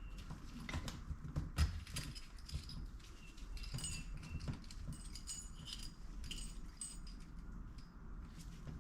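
Small steel gearbox parts clinking and clicking as they are handled and slid onto a motorcycle transmission shaft, several contacts leaving short high metallic rings; the sharpest clink comes a little under two seconds in.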